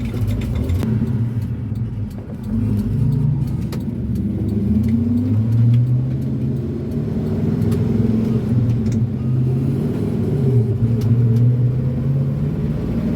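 The 454 big-block V8 of a 1988 Chevy C30 pickup pulling steadily in top gear, heard from inside the cab. The engine note dips briefly about two seconds in, then rises and falls gently with road speed.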